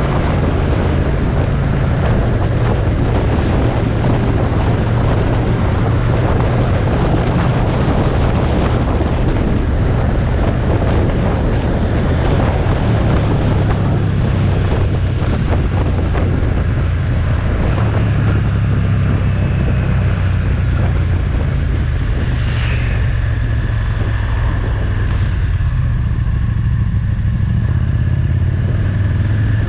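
Motorcycle engine running steadily on the move, with heavy wind rush over the microphone. The wind noise eases somewhat over the last few seconds.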